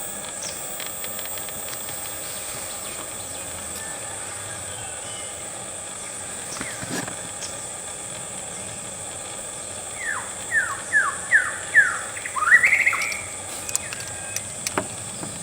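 White-rumped shama calling: a quick run of five falling whistles about two-fifths of a second apart, then a rising note, starting about ten seconds in. A steady high insect drone runs underneath.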